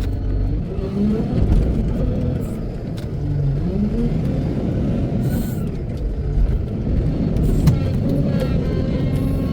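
Wheel loader's diesel engine revving up and falling back several times as it works, its pitch rising and dropping, with a few sharp knocks.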